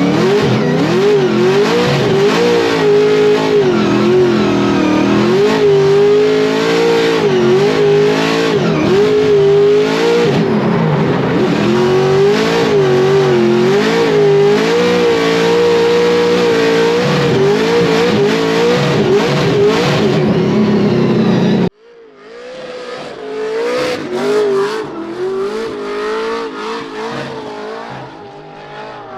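Engine-swapped Scion FR-S drift car's engine run hard, the revs rising and falling constantly. Near the end the sound cuts off abruptly and comes back fainter, the engine still revving up and down.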